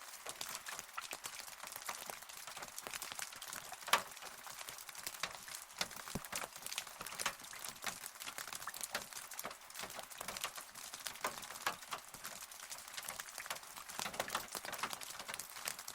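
Rain falling, heard as a steady hiss full of close, irregular drops ticking on a hard surface, with one louder drop about four seconds in.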